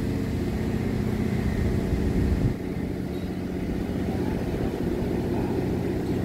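Steady low engine hum, with a sudden drop in level about two and a half seconds in.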